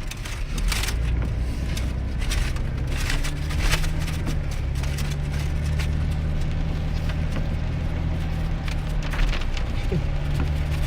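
Steady engine and road noise heard from inside the cab of a 2001 GMC Sierra pickup driving in the rain, with occasional short hissing sounds. The engine's hum dips and glides briefly about ten seconds in.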